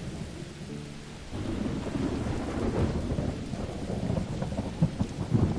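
Thunderstorm: a low rolling rumble of thunder over steady rain, the rumble swelling about a second and a half in.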